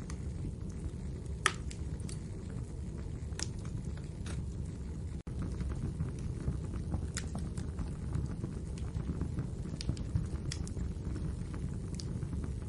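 Wood fire burning in a fireplace: a steady low rumble of flames with scattered sharp crackles and pops, the loudest pop about one and a half seconds in. The sound cuts out for an instant about five seconds in.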